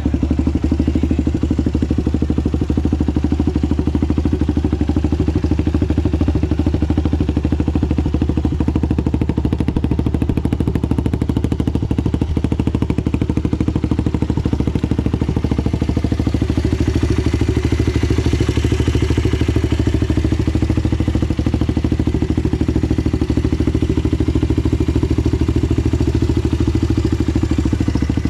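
2012 Yamaha WR250X supermoto's single-cylinder engine idling steadily through a Delta Barrel 4 aftermarket exhaust.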